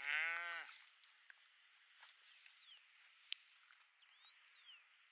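A sheep bleats once, briefly, at the start. A few faint bird chirps follow over a steady outdoor hiss, with a single sharp click in the middle.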